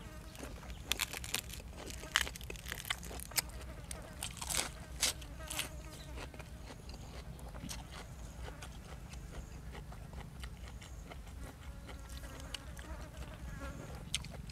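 Close-miked chewing and crunching of food, with sharp crunches thick in the first half and sparser later, over a steady low hum.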